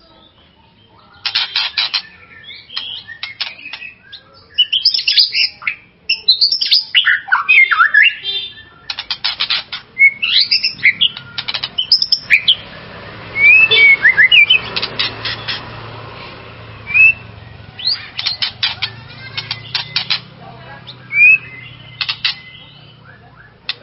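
White-rumped shama (murai batu) singing a varied song: phrases of rapid, rattling trill notes and quick rising and falling whistles, broken by short pauses.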